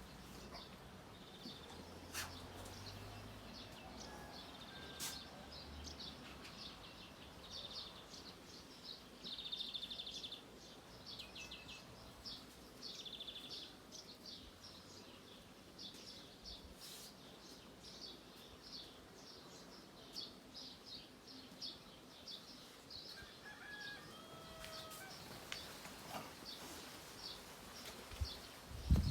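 Small birds chirping faintly, a steady run of short high notes with a brief rapid trill about nine seconds in.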